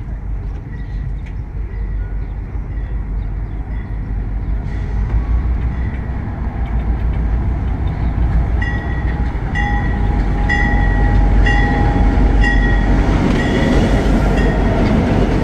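El Chepe passenger train pulling into the station, its diesel locomotive's rumble growing steadily louder as it comes past. About halfway through, a short pitched ding starts repeating roughly once a second.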